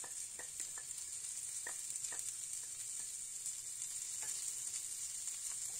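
Prawns frying in oil in a nonstick pan: a steady sizzle, with a few faint clicks as chopped coriander leaves are scraped in with a wooden spatula.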